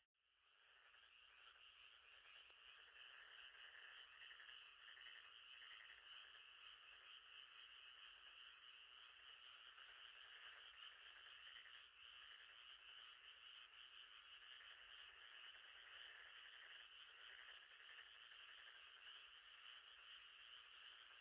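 Faint chorus of frogs calling steadily at night; it fades back in from a brief silent gap at the start.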